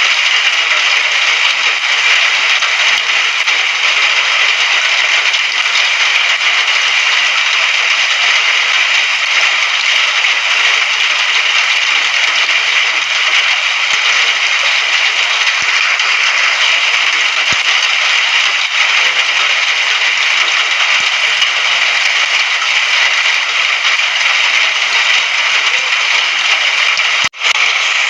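Steady heavy rain, a dense, even hiss of falling drops, with a momentary dropout about a second before the end.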